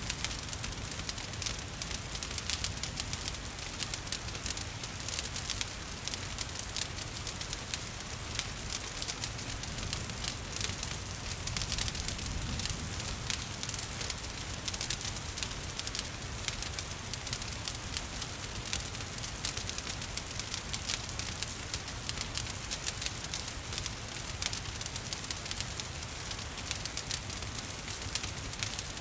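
Wood fire crackling with frequent small pops and snaps over a steady hiss of rain and a low rumble of flames.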